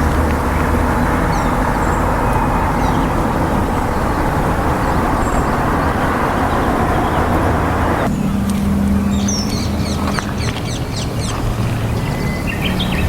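Outdoor riverside ambience: a steady rushing noise, then, after an abrupt cut about eight seconds in, small birds chirping repeatedly over a low hum.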